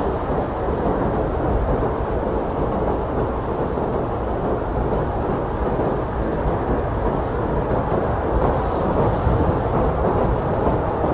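Blizzard wind blowing hard and steadily, a deep, low rushing noise with no separate gusts standing out.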